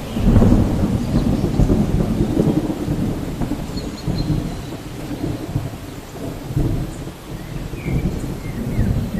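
Rolling rumble of thunder with rain, loudest about half a second in, easing off around the middle and swelling again near the end.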